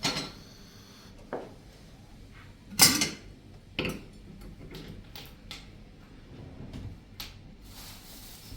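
A series of sharp knocks and clatters, the loudest about three seconds in, followed by a few lighter taps.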